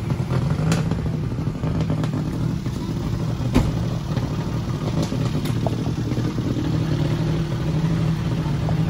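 Ferrari 458 race car's 4.5-litre V8 idling steadily, with no revving. A single sharp click cuts in about three and a half seconds in.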